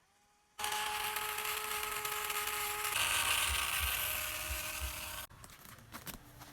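Small electric motor whirring steadily. Its pitch shifts about halfway through, and it cuts off suddenly near the end.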